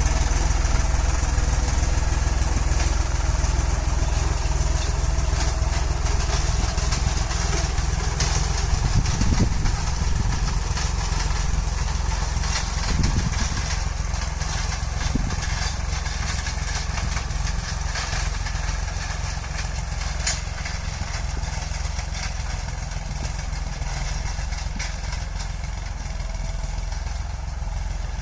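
Tractor engine running steadily at an even speed, with some light rattling, getting gradually a little quieter.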